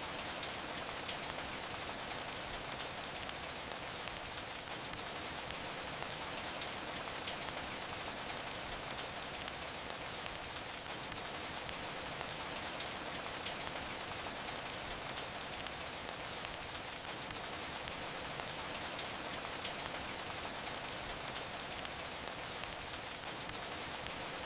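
Steady rain falling, an even hiss, with the sharp crackles and pops of a wood fire scattered through it; a few louder pops come about every six seconds.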